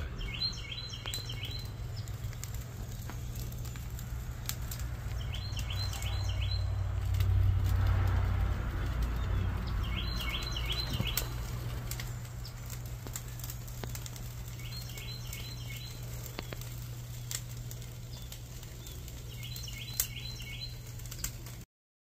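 A songbird repeating a short phrase of four or five quick notes about every five seconds, over a steady low rumble. A wood fire crackles with scattered sharp clicks.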